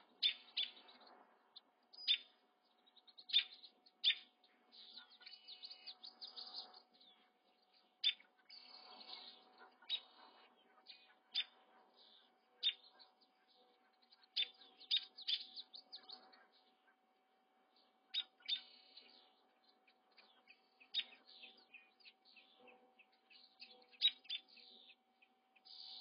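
Birds chirping: short, high chirps and peeps come every second or two, some in quick clusters, over a faint steady hum.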